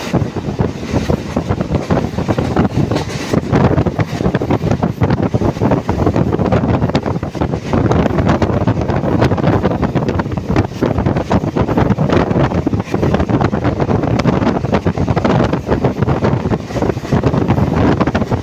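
Train running along the track, a loud steady rumble with irregular clatter, and wind buffeting the microphone.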